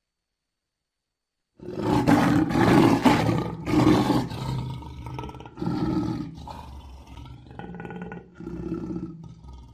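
Lion roaring: after a second and a half of silence, two or three long, loud roars, then a run of shorter, fading grunts about a second or two apart.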